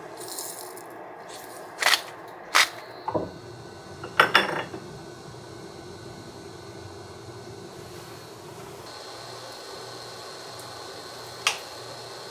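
Kitchenware clinking and knocking: a handful of sharp clinks, bunched in the first five seconds, with a single one near the end.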